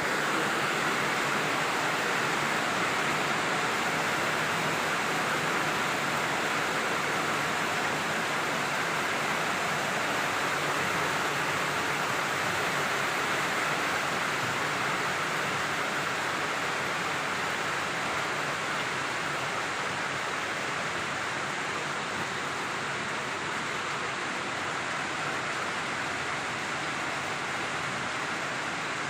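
Heavy downpour of rain pouring steadily: a dense, even hiss that eases slightly near the end.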